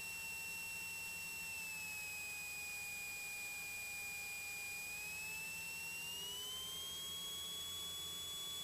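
A steady high-pitched electrical whine on a Cessna 182 Skylane's cockpit intercom audio while the plane taxis. Its pitch dips slightly about two seconds in, then rises again a little past halfway and settles higher than it started.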